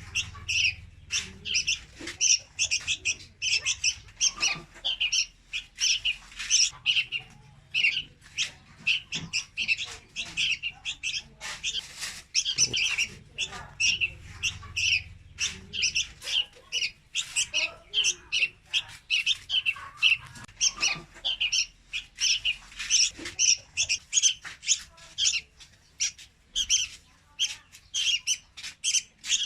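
Young red-whiskered bulbuls calling: a rapid, unbroken series of short, high chirps, several a second.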